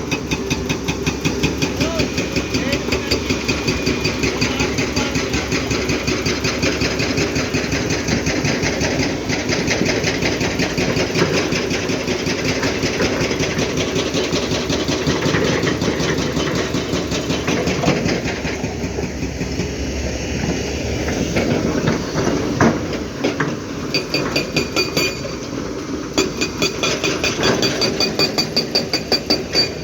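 Heavy diesel engine running with a fast, even pulse; it eases off for a few seconds from about eighteen seconds in, then picks up again.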